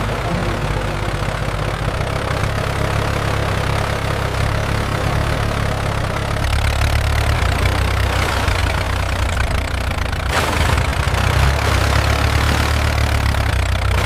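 A heavy engine running steadily at a low idle, a deep hum with a hissy rattle over it, getting a little louder about halfway through.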